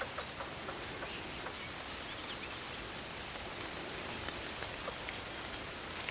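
Steady hiss of rain falling in a forest, with scattered single drops ticking irregularly through it.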